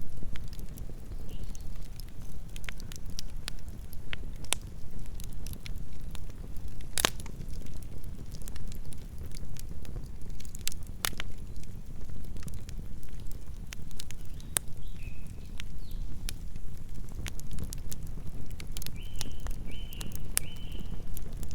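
Campfire burning: a steady low rumble of flames with scattered sharp crackles and pops, one louder pop about seven seconds in. A few short high chirps sound near the end.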